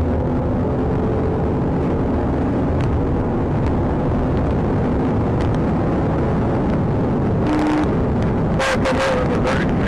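Police patrol car at pursuit speed: steady engine, tyre and wind noise heard inside the cabin, with a cluster of short sharp crackles near the end.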